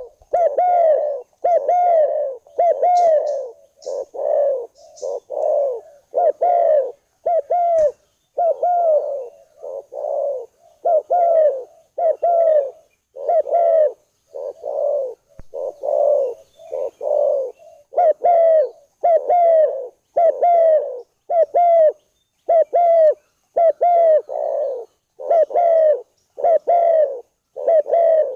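Spotted dove cooing in an unbroken series of short, falling notes, a little more than one a second.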